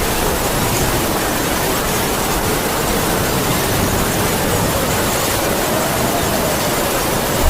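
Heavy rain pouring, with wind howling over it as a faint moaning tone that slowly rises and falls in pitch.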